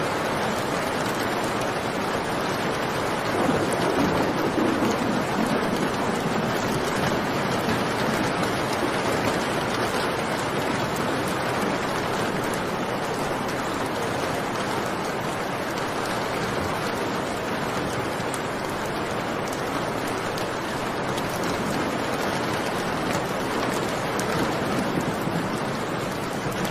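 Steady heavy rain, with a low rumble of thunder that swells and fades about four to six seconds in.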